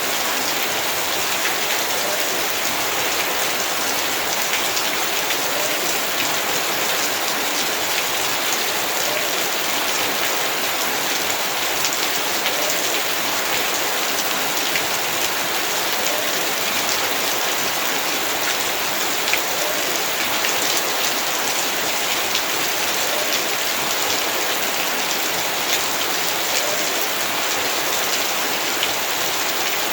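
Heavy rain falling steadily, drops hitting surfaces in a dense even hiss with scattered individual drop taps.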